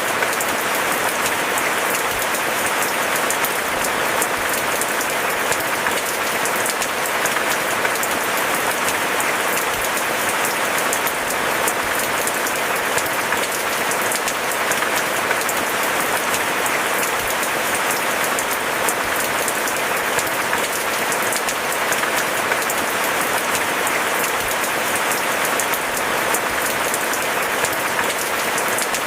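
Steady rain falling: a dense, even hiss of many drops that goes on without a break.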